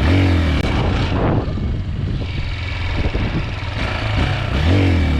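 A Chinese 250cc dirt bike's engine running under way, revving up just after the start and again near the end.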